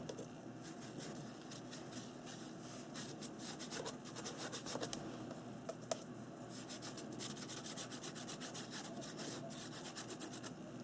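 Paintbrush stroking paint lightly across a paper journal page: faint, quick brushing scrapes in several short runs.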